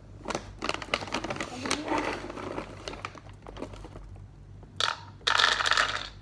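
Cat food and its dish being handled: a run of quick clicks and taps, then a short loud rustle near the end.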